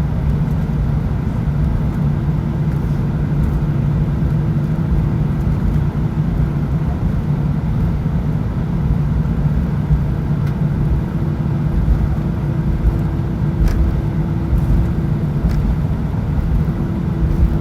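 Cabin noise inside an Airbus A319 airliner while it taxis: a steady low rumble and hum from the engines and rolling gear. A fainter whine comes and goes over it.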